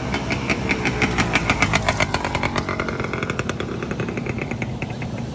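Honda Nova two-stroke motorcycle engine revving, with a rapid, even pulsing; the revs ease off a little past halfway.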